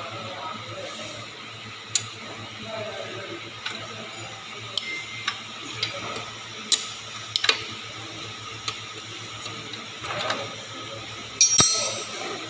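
Scattered sharp metallic clicks and knocks of hand tools working on a motorcycle engine, with a quick cluster near the end, over a steady low hum.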